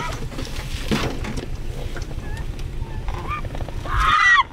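Suzuki Jimny's engine labouring up a very steep hill, a steady low rumble heard inside the cabin. A short, loud high-pitched call cuts in near the end.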